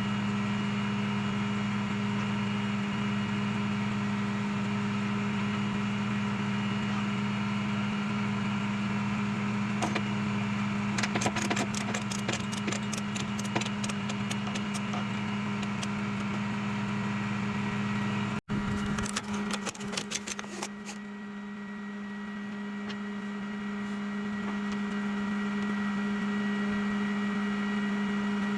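Rollback tow truck running with its PTO engaged, a steady hum from the engine and hydraulic pump as the bed and winch work. A quick run of clicks rattles about eleven seconds in. The sound cuts off sharply about two-thirds of the way through, and the same hum comes back.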